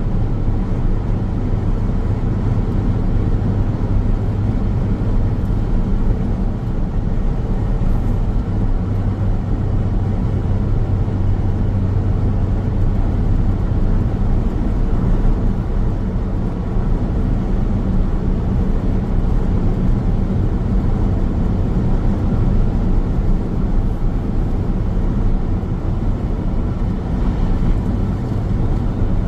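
Car driving steadily along a highway: continuous tyre and road noise with a low, even hum, no changes in pace.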